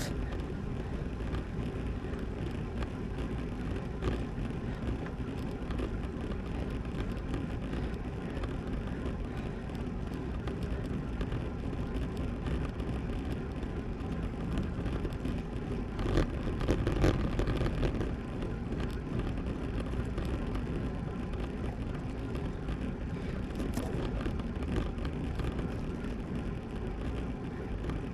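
Steady rush of wind on the microphone and tyre noise from a road bike riding along a road, with a brief louder swell about two-thirds of the way through.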